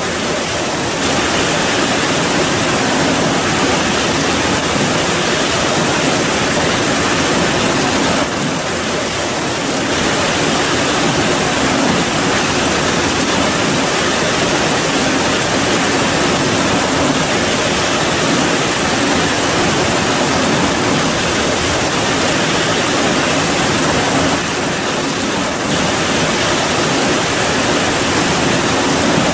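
Heavy rain falling in a steady, dense hiss, easing very slightly twice for a second or so.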